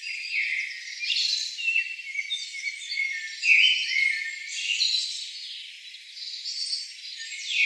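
Many overlapping high-pitched chirps and short falling whistles from small animals, with nothing in the low range.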